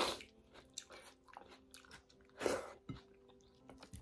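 Close-up chewing and mouth sounds of someone eating dhido and dried-fish curry by hand, in irregular bursts, with one louder burst about two and a half seconds in.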